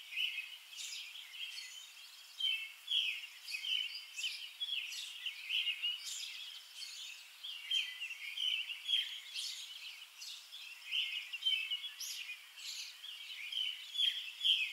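Small songbirds chirping and singing, a steady stream of short, high chirps coming several times a second.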